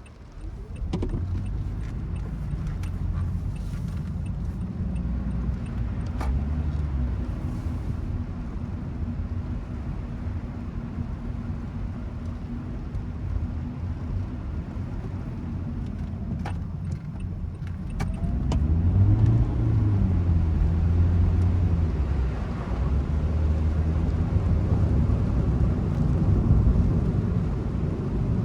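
Car running on the road, a steady low engine and road rumble heard from inside the car. Near the end the engine note rises and falls and gets louder as the car accelerates, with a few faint clicks along the way.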